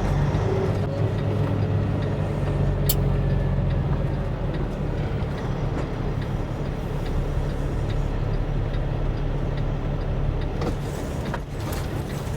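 Diesel semi truck engine running with a steady low drone, a little louder in the first few seconds, and a single sharp click about three seconds in.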